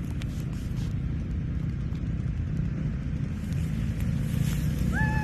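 Dirt bike engine running steadily. Near the end, a high falling call starts over it.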